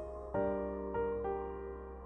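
Quiet background piano music. A chord is struck about a third of a second in, a few notes change around a second in, and the sound slowly fades.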